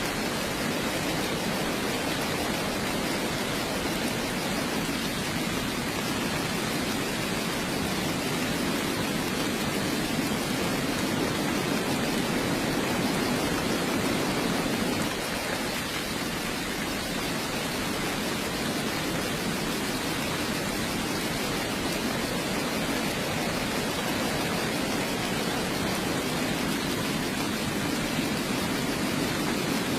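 Heavy rain falling steadily, an even hiss with a deeper rush underneath.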